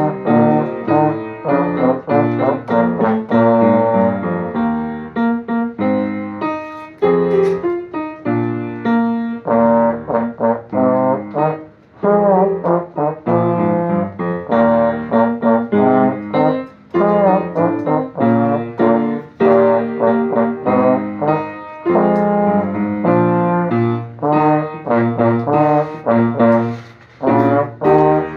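Trombone playing a solo with piano accompaniment: a lively run of short, separated notes, with a few sliding notes along the way.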